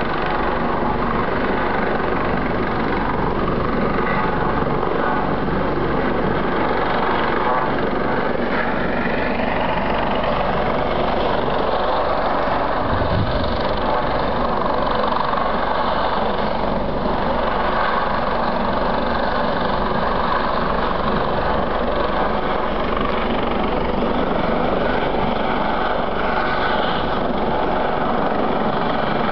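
Police helicopter hovering overhead: a loud, steady rotor and turbine noise with faint tones that slowly drift in pitch.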